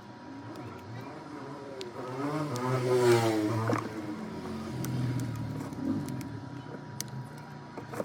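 A motor vehicle passing, its engine pitch rising and then falling, loudest about three seconds in. A faint steady high tone runs underneath.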